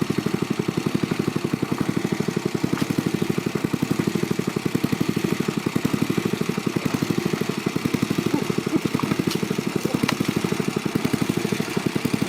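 Small engine running steadily at a constant speed, its rapid even firing beats unchanging throughout.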